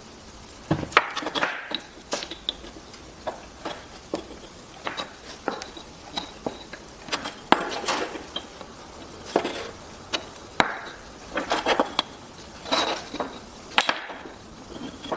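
Pieces of wood being handled, giving irregular hard clacks and knocks as wood strikes wood or a work surface, some single and some in quick clusters.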